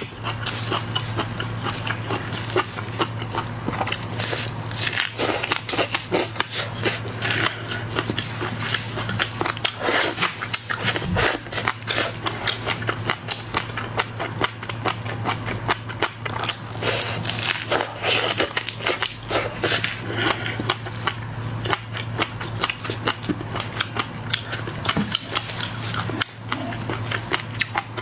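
Close-miked eating of shrimp and lobster: a continuous run of crunching and crackling of shells with wet chewing, over a steady low hum.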